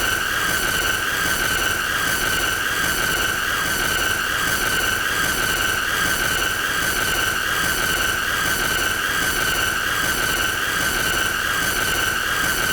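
Continuous high-pitched squealing tone with overtones over a hiss, playing as an unbroken loop at a steady level, the video's 'most annoying sound'.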